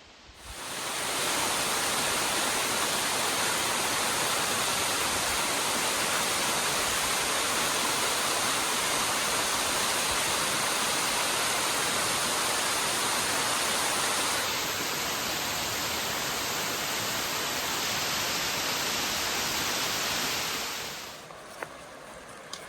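Waterfall, its water rushing in a loud, steady hiss that cuts in about half a second in and fades out shortly before the end.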